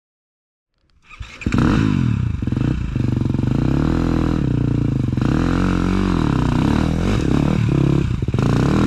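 Enduro dirt bike engine revving up and down over and over, its pitch rising and falling, starting about a second in after a brief silence.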